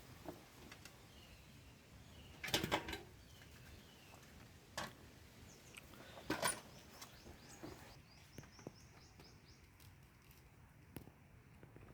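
Faint birds chirping, with a few scattered sharp knocks, the clearest a short cluster a little over two seconds in.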